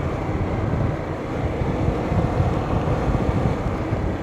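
Steady noise of a moving vehicle on a road: the engine running under a low wind rumble on the microphone, a little louder about halfway through.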